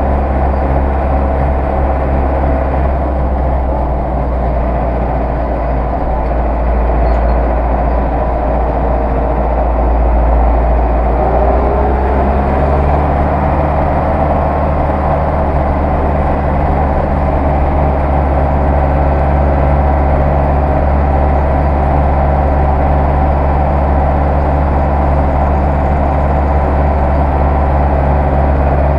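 Zetor 6911 tractor's diesel engine running steadily under way, with a deep, even note that shifts slightly about twelve seconds in.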